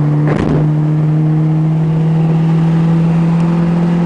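Mazda Familia's 1.5 L ZL-VE four-cylinder engine pulling steadily under acceleration in a fresh gear, its note climbing slowly, with the air filter removed. A brief knock sounds about half a second in.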